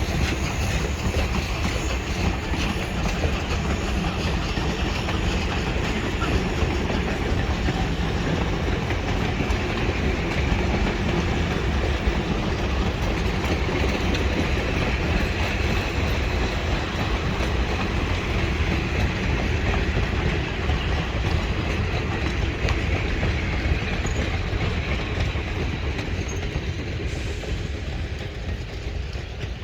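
Train of passenger coaches rolling past steadily, steel wheels clicking over the rail joints, fading slightly near the end.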